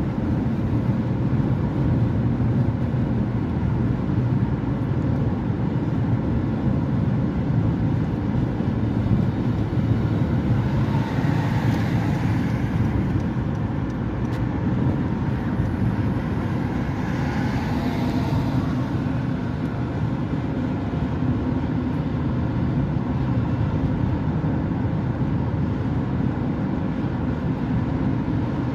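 Road traffic: a steady low rumble of vehicles, with two swells of tyre hiss that rise and fade, about a third and about two thirds of the way through.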